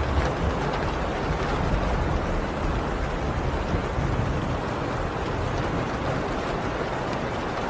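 Heavy rain drumming steadily on a tin roof, with a deep low rumble of distant thunder underneath that eases off after about five seconds.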